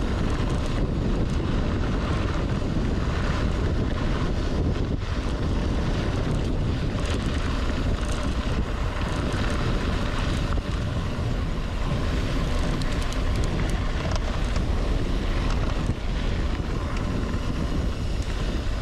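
Strong wind rushing over the microphone, a steady low rumble of wind noise, on a mountain bike ride.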